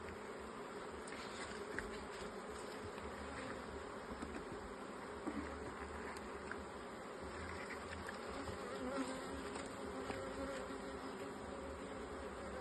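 Honey bees buzzing steadily around an open hive, with a few faint clicks.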